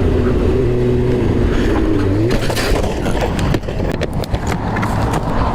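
Motorcycle engine running, its note slowly falling and then briefly revving up about two seconds in. After the engine note fades there is a clatter of sharp clicks and knocks.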